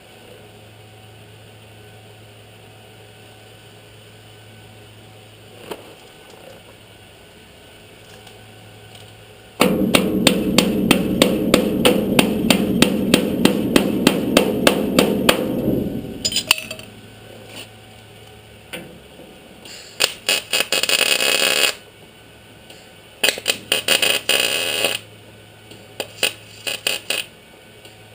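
Welding on thin sheet-metal body panels: a loud crackling run of about six seconds with sharp peaks several times a second, then a few shorter bursts, as seams and corners are welded up.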